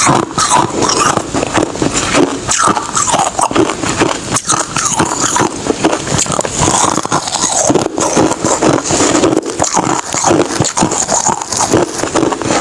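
Hard ice being bitten and chewed close to the microphone: a dense, continuous run of crunches.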